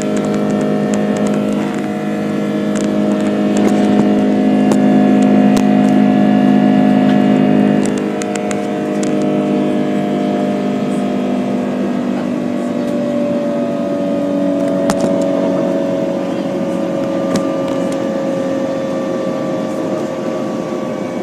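Airbus A330-300's jet engines heard from inside the cabin: a steady drone carrying several held whining tones, with scattered light clicks and rattles. It eases a little about eight seconds in, and in the second half some tones slowly slide lower in pitch.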